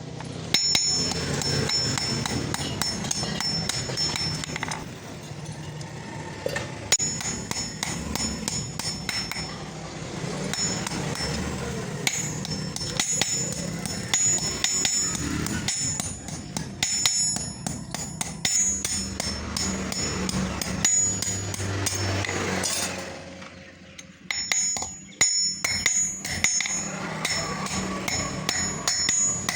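Rapid, repeated hammer blows on steel, forging a bearing ball into a mini axe head, with a brief break about three-quarters of the way through.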